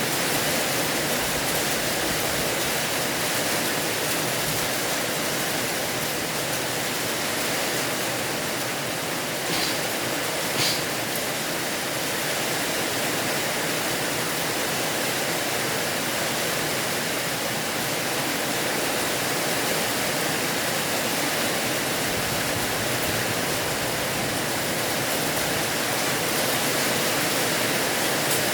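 Steady heavy rain hissing evenly, with two brief sharp ticks a second apart about a third of the way in.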